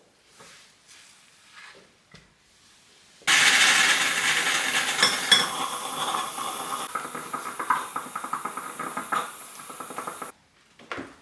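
A small electric motor appliance switched on about three seconds in, running with a loud whirring hiss for about seven seconds, then switched off abruptly.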